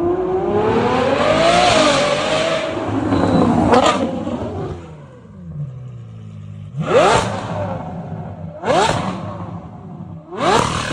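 Jaguar F-Type's supercharged 3.0 V6 through a valveless stainless-steel exhaust. It revs up over the first few seconds and falls away to a low idle, then gives three sharp throttle blips about two seconds apart.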